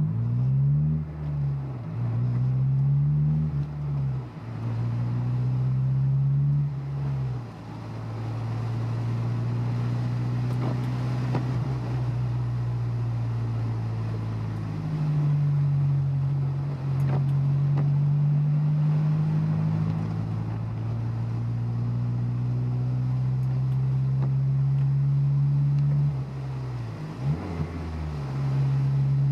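Honda S2000's four-cylinder engine heard from inside the car: its pitch climbs and drops several times in the first few seconds through gear changes, then holds a steady cruising tone, with another drop and climb near the end.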